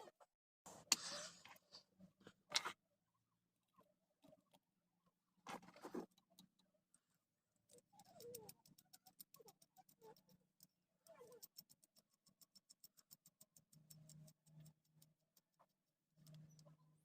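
Faint handling noises: a few short scrapes and knocks, then a run of quick, even clicks lasting several seconds.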